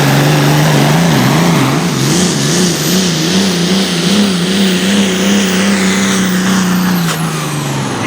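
Tractor-pulling competitor's engine running hard at high revs, loaded by the weight sled. Its note wavers rapidly up and down for a few seconds, then holds and drops away near the end.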